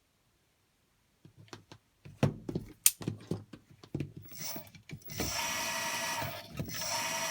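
A few clicks and knocks of handling, then about five seconds in a car alternator converted into a brushless electric motor spins up and runs with a steady high whine, dipping briefly once.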